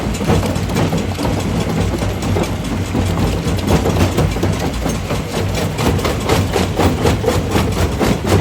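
Primary jaw crusher at work: a steady low engine drone with a rapid, irregular run of cracks and crunches from rock being broken in the jaws, growing sharper and more frequent about halfway through.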